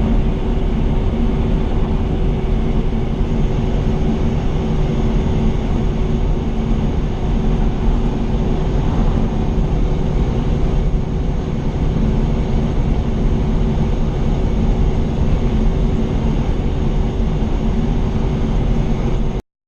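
Semi-truck engine and road noise heard from inside the cab while driving: a steady drone with a low hum. It cuts off suddenly near the end.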